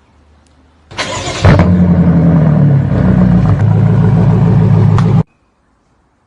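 Car engine cranking and catching about a second in, then running loud and steady at a high idle before cutting off suddenly about four seconds later.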